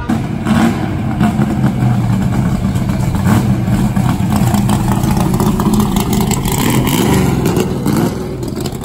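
Car engine running loudly, its revs rising and falling, then getting a little quieter near the end.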